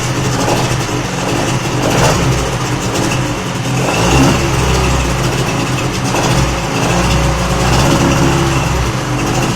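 Old Mariner 25 hp outboard motor running steadily just after being coaxed into starting. A deeper low rumble comes in about four seconds in.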